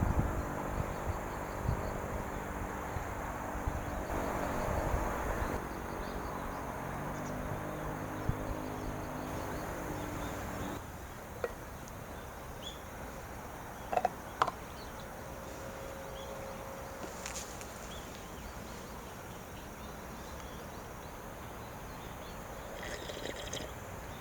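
Steady insect chirring, with a low rumbling noise that cuts off abruptly about halfway through and a few sharp clicks after it.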